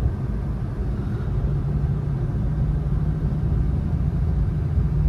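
Steady low drone inside the cabin of a moving Infiniti Q50 3.7, from its 3.7-litre V6 running at an even cruise and its tyres on the snowy road.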